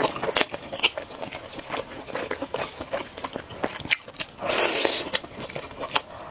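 Close-miked eating: crisp bites and chewing of a crispy fried chicken leg, with many small crunches and crackles and one longer, louder bite-and-chew sound about four and a half seconds in.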